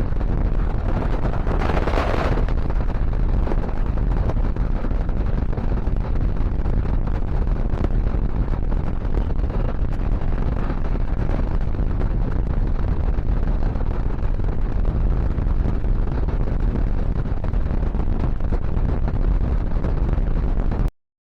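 Passenger train running at speed, a steady heavy rumble and rush of air with a louder surge about two seconds in; the sound cuts out abruptly just before the end.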